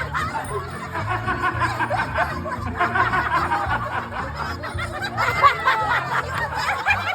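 A group of people laughing and calling out all at once over background music with a steady bass line.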